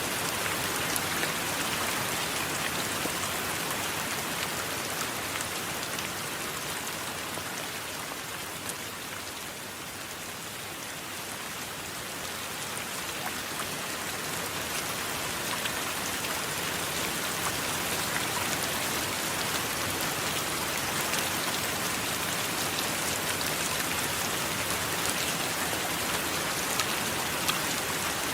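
Steady rain with individual drops ticking, easing off briefly about a third of the way in and then building back.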